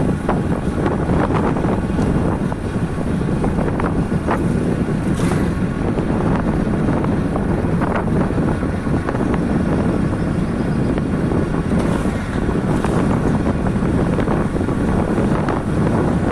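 Steady wind noise buffeting the microphone on a moving motorcycle, with the bike's road and running noise underneath, with a few brief clicks or knocks.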